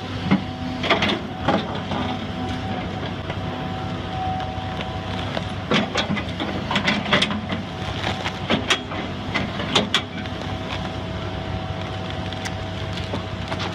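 A heavy machine's engine running steadily, with scattered sharp knocks and cracks over it, several close together about six to seven seconds in.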